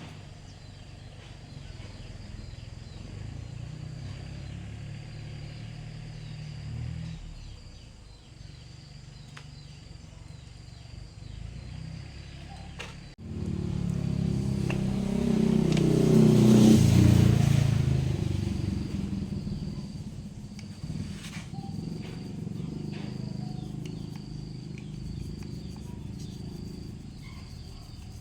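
Engine running with a steady low hum, cut off abruptly about halfway through, then coming back louder, swelling for a few seconds and easing off again. Insects drone faintly throughout.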